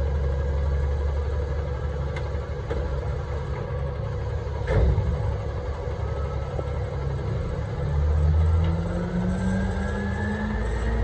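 Garbage truck's diesel engine running with a steady low rumble, a single sharp knock about five seconds in, then revving up over the last three seconds, its pitch rising.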